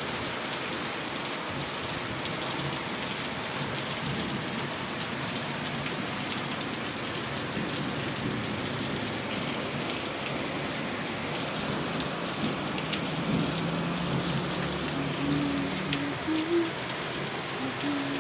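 Steady rain falling and pattering on surfaces, an even hiss that holds at one level throughout. Faint low pitched notes sound over it in the last few seconds.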